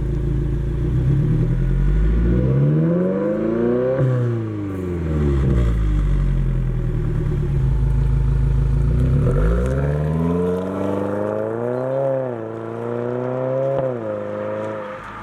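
2022+ Subaru WRX's turbocharged 2.4-litre flat-four heard through an AWE Touring cat-back exhaust, revving. It rises slowly and drops back, idles steadily for a few seconds, then revs up again with a second peak before settling.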